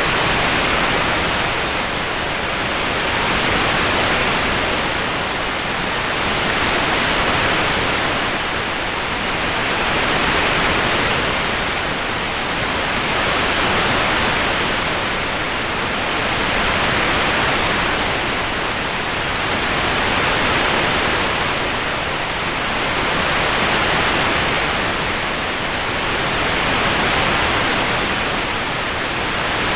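Steady rain-sound ambience, an even hiss that swells and eases slowly about every three and a half seconds.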